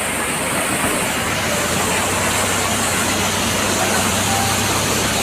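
Steady roar of a waterfall, with a low hum underneath that grows stronger about a second and a half in.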